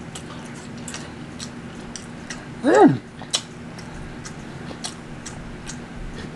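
A person chewing a mouthful of food with wet smacking and clicking, many irregular mouth clicks, and one short voiced 'mm' that falls in pitch about three seconds in.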